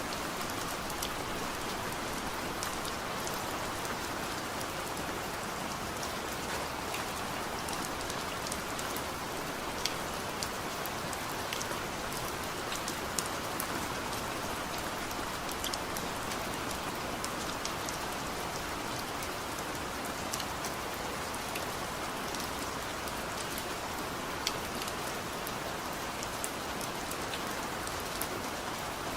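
Heavy rain falling steadily, an even wash with the sharp ticks of individual drops scattered throughout.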